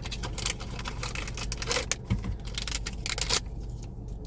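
Toy blind-box packaging being opened by hand: a run of crinkling, tearing and clicking as a package door is pulled open. The handling thins out after about three seconds.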